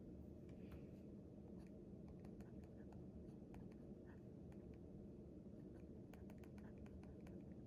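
Handwriting on paper: faint, irregular scratches and light taps of the writing tip, coming thicker near the end, over a steady low hum.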